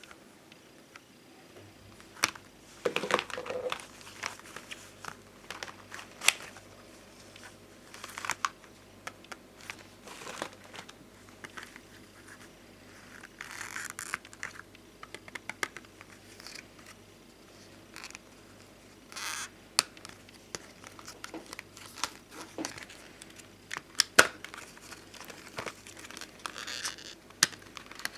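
Bonbon drop stickers and ohajiki stickers on their sheets being handled, giving irregular small clicks, taps and short plastic rustles.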